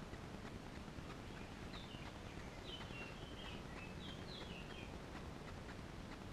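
A songbird singing a short run of quick, high chirping notes that step downward, from about two seconds in to about five seconds in, over faint steady background noise with light scattered ticks.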